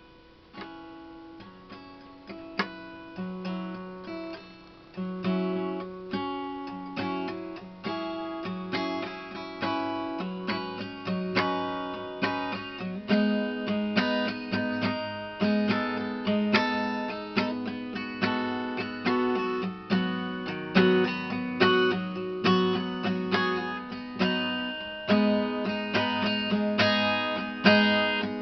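Acoustic guitar playing alone, strummed chords in a steady rhythm, starting quietly and growing fuller about five seconds in and again around thirteen seconds in.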